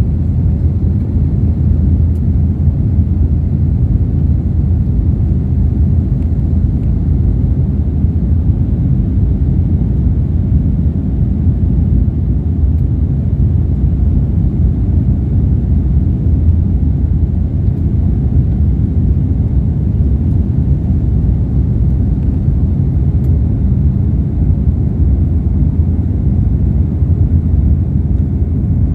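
Airliner cabin noise in flight: a steady, even low rumble of engines and airflow that holds unchanged throughout.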